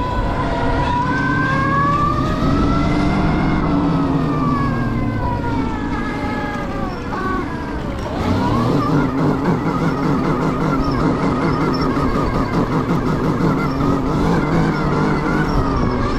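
Electric dirt bike's motor whining under way, its pitch rising and falling with throttle and speed over a noisy rumble. The whine sinks about halfway through, then climbs sharply and holds, wavering.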